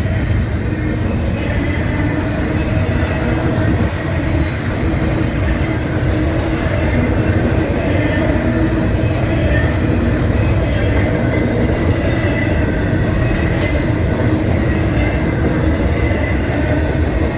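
A train rolling past: a steady, loud rumble of wheels on rail, with a faint high squeal from the wheels running through it.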